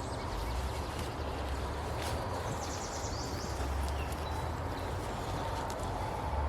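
River water flowing steadily, with a low rumble coming and going underneath. A short, fast high trill, like a bird's, comes about two and a half seconds in.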